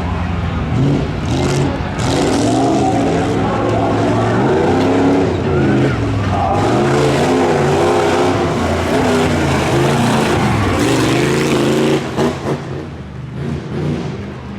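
Stock pickup truck engine revving hard, its pitch rising and falling again and again as the throttle is worked over rough ground, then dropping away near the end.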